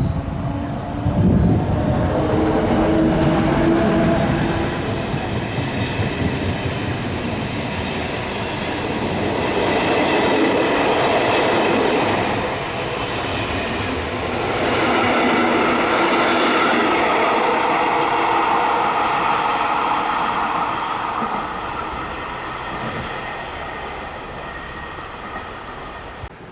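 A train running past on the rails, a noisy rumble with some faint tonal whine, growing louder twice and then fading away near the end.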